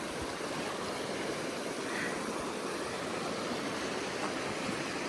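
Steady rushing of a river running high after heavy rain, with small waterfalls pouring into it.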